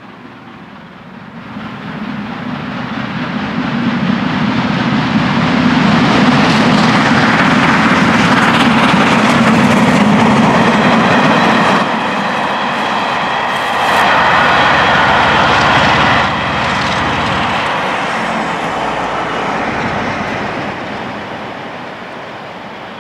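A steam-hauled passenger train passes, with a diesel locomotive coupled at the rear. The train noise builds over a few seconds and stays loud through the middle, with a steady high whine for a few seconds past the halfway point. It then fades as the train draws away.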